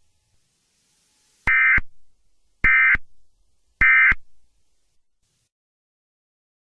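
Three short Emergency Alert System end-of-message data bursts (SAME digital tones), each a brief buzzing electronic screech, spaced a little over a second apart. Each burst trails off briefly. They mark the end of the alert.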